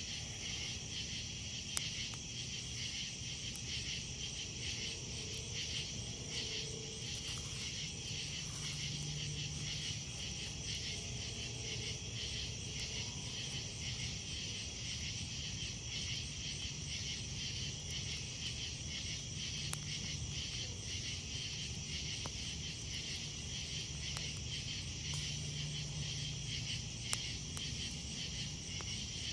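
Night chorus of crickets and other insects, a steady high pulsing trill, with a few sharp pops from a campfire.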